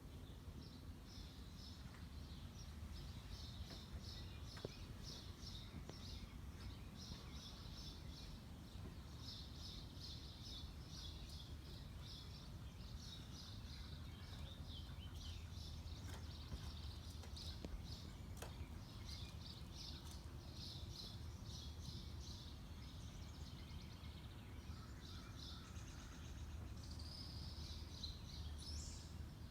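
Small birds chirping in quick high-pitched runs, over a low steady background rumble.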